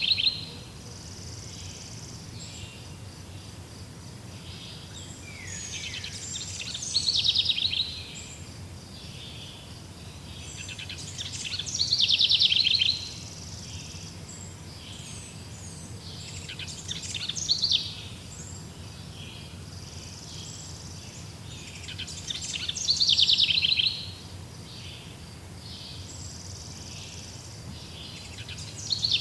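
A wild songbird repeating the same loud, rapidly trilled song phrase about every five to six seconds, each phrase building up over a second or two before cutting off. Fainter chirps from other birds and a steady background hum fill the gaps.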